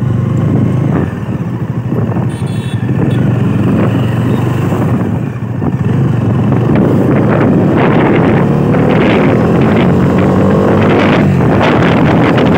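Bajaj Dominar 400's single-cylinder engine accelerating from low speed, the engine note rising as it pulls. Wind buffeting on the microphone builds as speed picks up toward the end.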